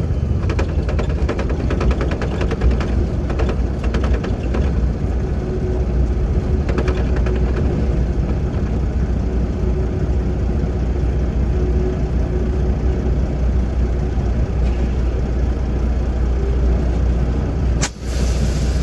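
Semi truck's diesel engine running steadily with a low drone.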